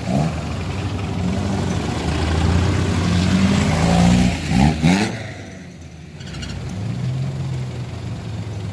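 Engines of off-road Suzuki 4x4s driving slowly past close by. One revs up about halfway through, then its sound drops away, and the next vehicle's engine comes in steadily near the end.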